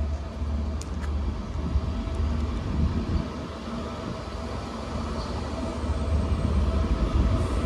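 Class 67 diesel-electric locomotive, with its two-stroke V12 engine, moving its train out of the station with a steady low drone.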